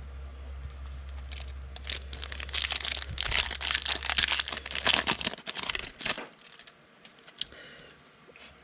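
Foil trading card pack wrapper being torn open and crinkled, a dense crackling from about two seconds in that thins out to a few scattered crinkles after about six seconds.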